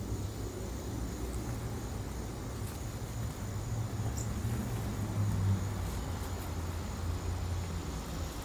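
Steady low rumble of distant city traffic, with a faint thin high tone above it and a few light ticks.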